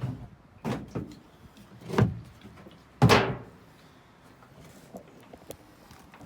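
A run of separate knocks and thumps, about five in the first three seconds, the loudest a slam about three seconds in.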